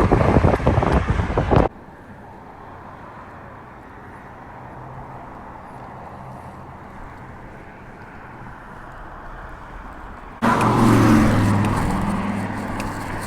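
Roadside traffic noise: cars going by on the highway, cutting off abruptly to a quieter stretch with a faint low hum about two seconds in, then a vehicle passing close by comes in suddenly near the end.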